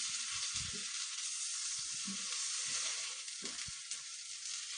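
Butter sizzling steadily on a hot tava as a pav bun toasts in it with bhaji, while a steel ladle scrapes and taps on the bread and pan now and then.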